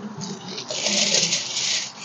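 Wrapping material being crinkled and rustled by hand as the breadfruit is wrapped: a long crinkling rustle of about a second in the middle, with shorter rustles around it.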